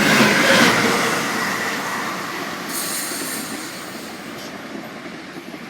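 A train passing close by through the station, loud at first and then fading steadily as it draws away. The sound came suddenly enough to startle the person standing beside the track.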